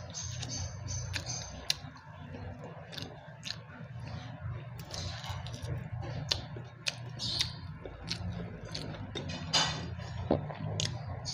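A person chewing food, with many short sharp clicks scattered through it over a steady low hum.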